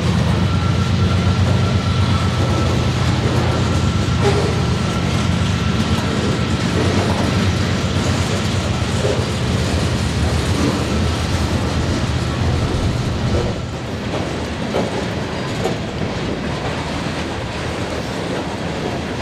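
A Union Pacific freight train passes: its diesel locomotives give a low engine drone, then covered hopper cars roll by. The engine drone drops away about two-thirds of the way through, leaving the rolling noise of the cars.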